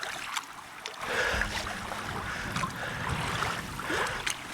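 Choppy lake water splashing and lapping around a kayak, with a low rumble coming in about a second in.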